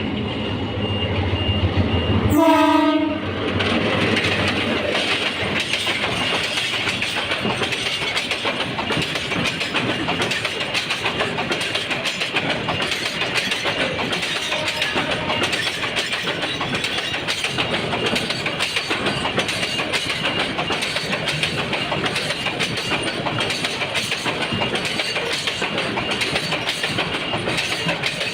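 Goods train on Bangladesh Railway: a short blast of the locomotive horn about two and a half seconds in, then the steady rumble and clatter of the wagons rolling past on the rails.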